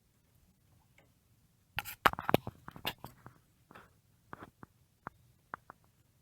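Handling noise as the model airplanes are moved: a quick flurry of clicks and light knocks about two seconds in, then a few single clicks spaced out.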